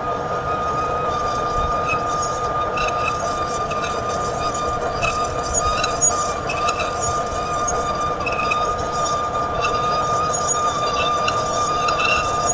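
Metal lathe running through a reboring cut: a steady mechanical whine, with small irregular ticks scattered through it.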